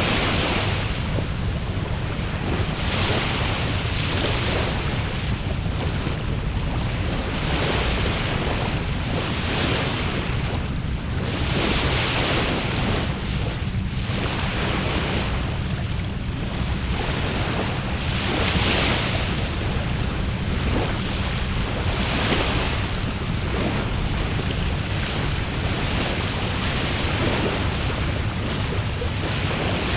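Wood fire burning in a Coleman Fire Disk fire pit: a steady rush of flame with swelling gusts every couple of seconds and faint crackles, under a low wind rumble on the microphone. A steady high-pitched whine runs under it.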